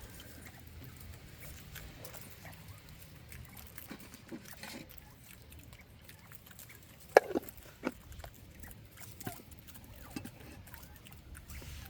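Bobwhite quail pecking and crunching up mealworms: scattered sharp pecks and taps, with two louder ones a little after halfway.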